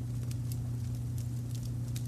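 Wood fire crackling with a few sharp, irregular pops over a steady low rumble of brown noise.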